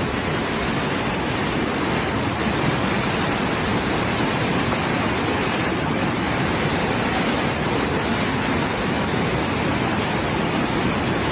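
Waterfall rushing steadily, a continuous even noise of cascading water.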